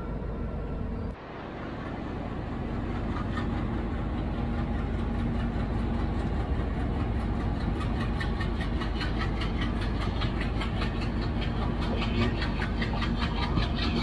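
Diesel-hauled passenger train moving on the next track. The locomotive's engine hums steadily, and from a few seconds in the wheels click over the rail joints, the clicks coming faster as the train picks up speed. The level drops sharply about a second in.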